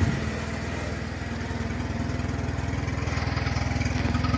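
Two-cylinder Oka car engine of a homemade all-terrain vehicle running steadily at a low speed, an even rapid pulse growing slightly louder; it runs smoothly and quietly.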